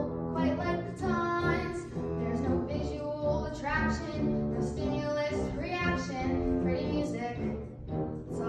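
A high voice singing a melody with gliding, bending notes over instrumental band accompaniment.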